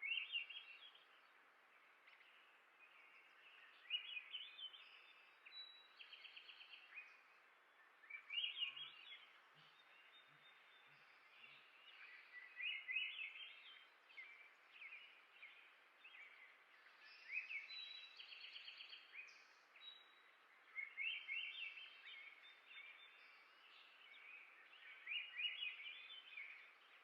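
A small songbird singing short warbling phrases of quick rising notes, one about every four seconds, with a few rapid trills between them, over a faint steady outdoor hiss.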